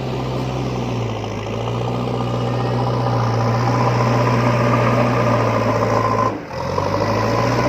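An engine running steadily with an even hum, briefly dropping away about six seconds in before picking up again.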